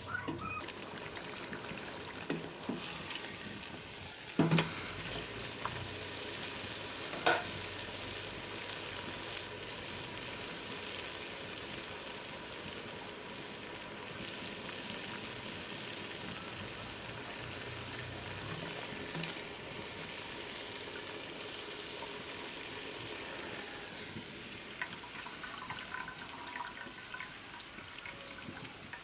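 Food frying with a steady sizzle. Two sharp knocks cut through it, about four and a half and seven seconds in.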